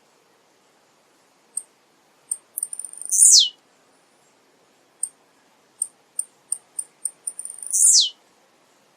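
Male blue-black grassquit (tiziu) singing two songs, about three and eight seconds in. Each song is a run of short, high ticks ending in a loud note that sweeps steeply down in pitch.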